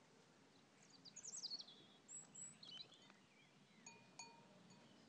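Faint birdsong over quiet outdoor background hiss: a quick run of high, falling whistled notes about a second in, then a short high whistle and a few more chirps, with a couple of soft clicks near the end.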